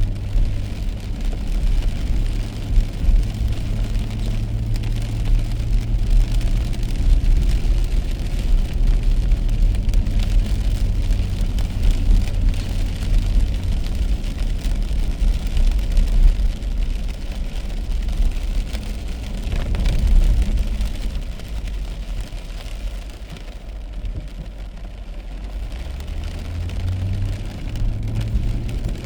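Car driving on a wet road in the rain: a steady low engine and road rumble with the hiss of tyres and rain. The low hum fades about halfway through and comes back near the end.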